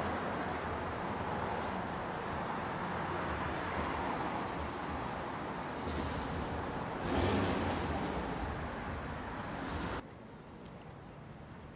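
Steady rushing outdoor noise, with a louder swell about seven seconds in, that drops off suddenly to a quieter background hush at about ten seconds.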